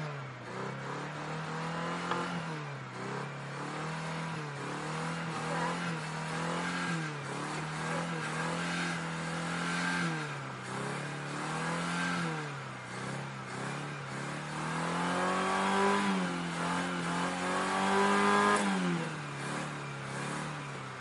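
Car engine being revved over and over by pumping the gas pedal, its pitch rising and dropping back about every two seconds, with two longer, higher revs near the end.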